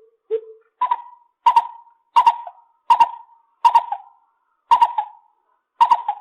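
Lesser coucal calling: one low hollow note, then a steady series of about seven louder, higher-pitched notes, roughly one every three-quarters of a second.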